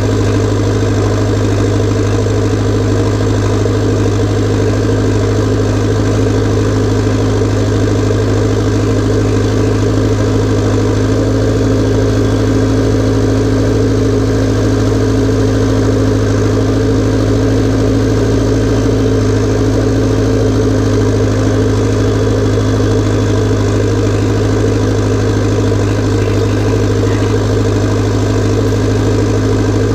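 Massey Ferguson tractor's diesel engine running steadily at a constant speed, with a deep, even drone and no revving.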